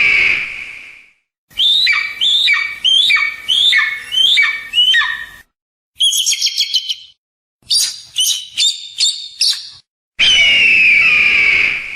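Eagle and hawk calls played one after another with silent gaps between them. First a long, loud scream falling slightly in pitch, then a run of about seven sharp down-slurred cries at roughly two a second, then a short burst of rapid high chattering, then a few quick high calls, and near the end the long scream again.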